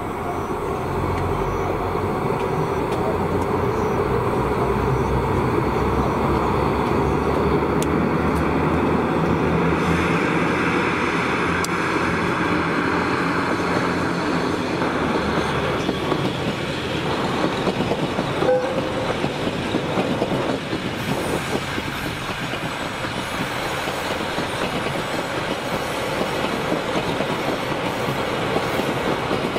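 Long passenger train passing along the rails, a steady rumble that builds over the first several seconds and holds, with one sharp click about two-thirds of the way through.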